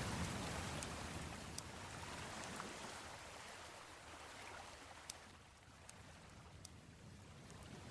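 Baltic Sea waves washing on the shore, the surge fading over several seconds and a new one swelling near the end, with a few sparse, sharp pops from a wood campfire crackling.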